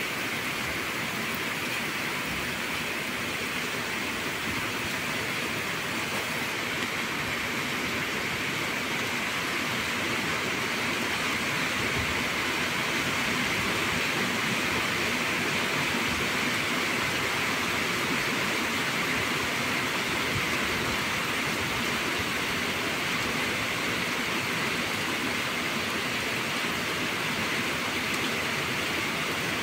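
Steady rain falling, an even hiss that swells slightly and holds.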